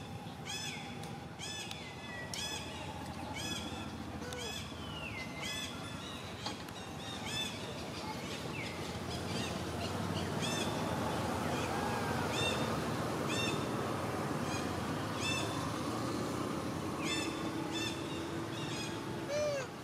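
Small birds chirping over and over, short arched chirps about once or twice a second, over a steady background noise that grows louder about halfway through.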